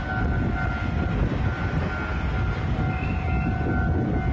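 Steady low rumble from a standing electric passenger train at a level crossing, with a faint high hum that cuts in and out.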